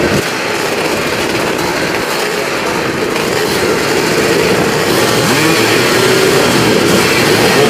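Vintage motocross motorcycle engines running on the track and revving, with one engine rising in pitch about five seconds in.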